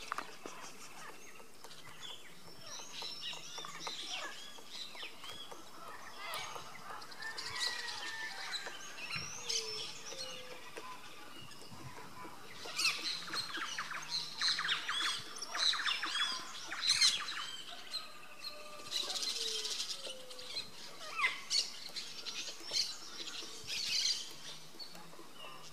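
Birds chirping and calling, several overlapping short calls and sweeps, thickening into a dense run of rapid chirps about halfway through.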